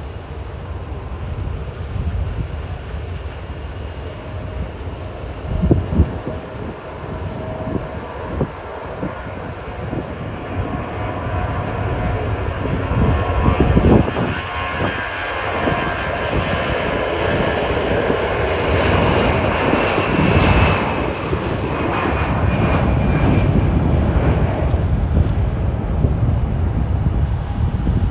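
An Airbus A340-300 airliner's four CFM56-5C turbofan engines, a steady jet rumble that grows louder through the second half. A few brief thumps sound early on.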